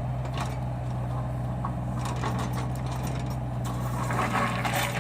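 Compact excavator's diesel engine running steadily, with scattered knocks and scraping over the hum.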